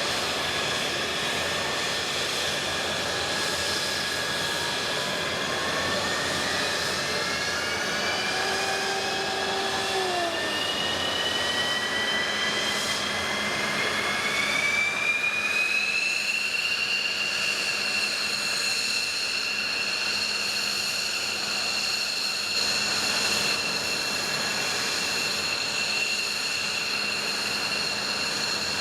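F-15 fighter's turbofan jet engine spooling up: a whine that climbs steadily in pitch over about twelve seconds, then holds at a steady high whine over the jet's noise.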